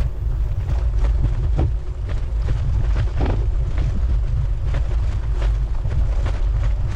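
Wind buffeting the microphone of a camera on a moving bicycle, a heavy low rumble, with scattered small clicks and rattles.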